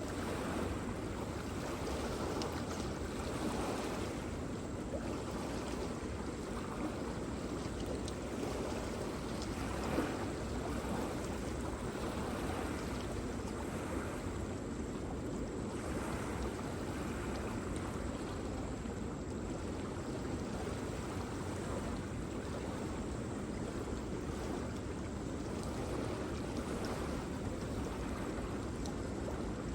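Waterfall rushing steadily, an even deep roar of falling water without pause.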